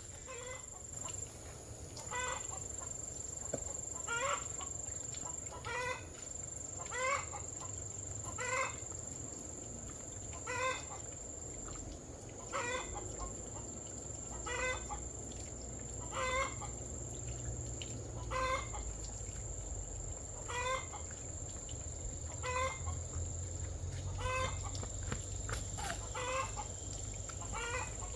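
Chickens clucking, a short call roughly every one and a half seconds, over a steady high-pitched whine.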